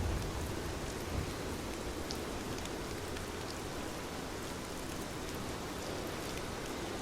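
Steady rain falling, with individual drops ticking now and then over the even hiss. A low rumble dies away in the first second.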